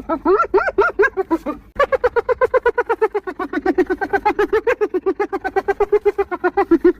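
Spotted hyena giggling: a fast run of short pitched yelps, about nine a second, with a few upward-sliding calls in the first second and a half and a brief break just under two seconds in.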